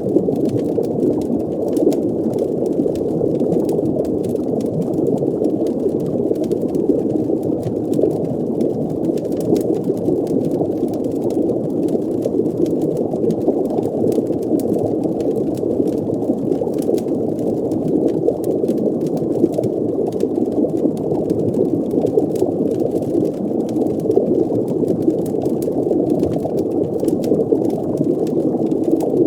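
Underwater fireplace ambience: a steady, muffled rush of deep water with faint fire crackles ticking over it.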